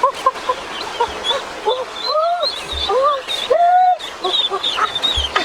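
Several geese honking, their calls overlapping, with a few longer drawn-out honks in the middle and higher chirping calls throughout.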